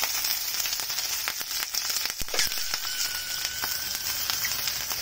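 Boiled pork intestines frying in hot cooking oil in a nonstick pan: a steady sizzling hiss dotted with crackling pops of spitting oil.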